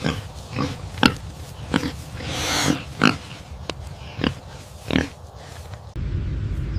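Pig grunting: about seven short, separate grunts, with one longer, breathier snort near the middle. Near the end the grunting stops abruptly and a steady low rumble takes over.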